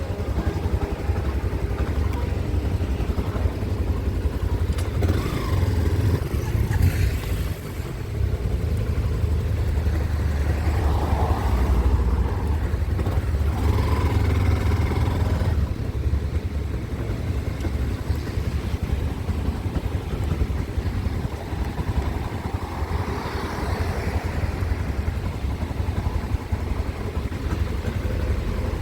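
Low-displacement motorcycle running on the road, its engine note under a heavy, steady low rumble, rising in places around the middle and near the end.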